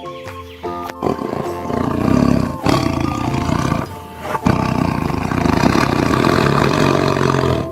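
Tiger roaring, long rough roars that begin about a second in with two brief breaks, over background music.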